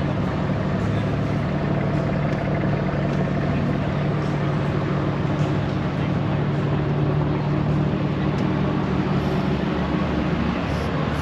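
Car engine idling steadily, a constant low hum with overtones that changes little, over the general noise of a car meet.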